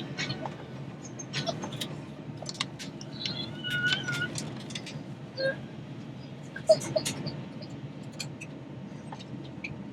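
Steady low hum of an Airbus A321 airliner cabin, with scattered small clicks and knocks from inside the cabin and a faint brief tone about four seconds in.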